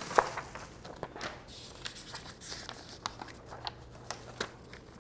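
Light handling noises: scattered small clicks and rustles, with one sharper click just after the start.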